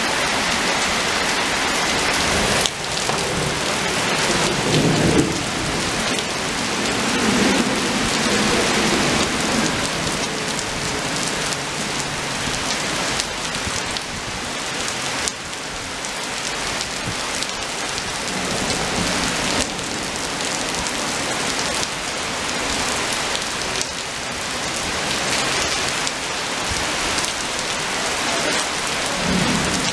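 Rain falling steadily on an asphalt path and leafy bushes.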